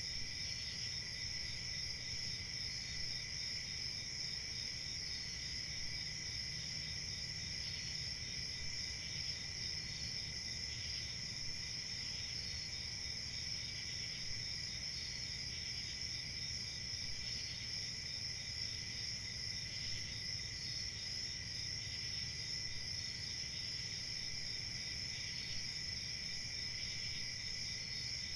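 Crickets chirping in a steady chorus: high continuous trilling, with a slower, fainter repeating chirp over it about every second.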